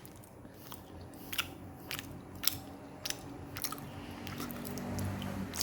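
A person chewing a bite of mooncake close to the microphone: small wet mouth clicks about every half second.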